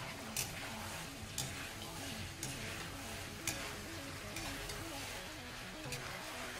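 Chicken chilli sizzling in hot oil in a metal kadai, stirred with a spatula that clicks against the pan about once a second.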